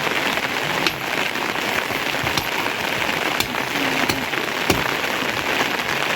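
Steady rain falling, with a sharp drip or drop hitting a surface every second or so.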